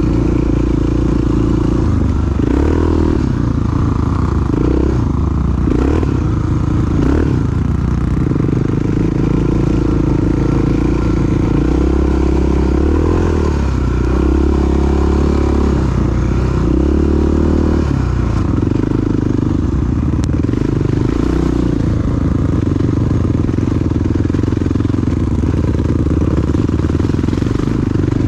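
Single-cylinder four-stroke dual-sport motorcycle engine running while riding, its pitch rising and falling with the throttle, with some clatter over it.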